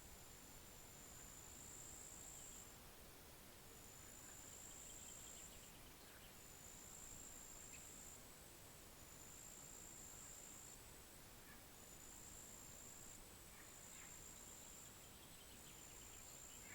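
Faint outdoor ambience of an insect trilling: a high, steady buzz in repeated one- to two-second bursts with short gaps, with a few soft bird chirps.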